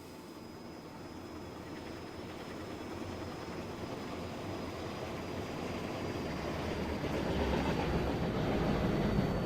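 Metra commuter train approaching, its rumble and wheel noise growing steadily louder, loudest near the end.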